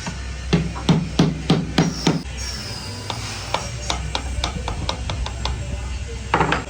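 Hammer blows, about six quick strikes in a row, then a run of lighter taps and one more heavy knock near the end.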